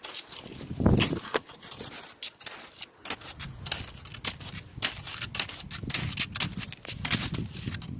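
Skis scraping and crunching on snow: a rapid, irregular run of crisp scratches and clicks, with a dull thump about a second in.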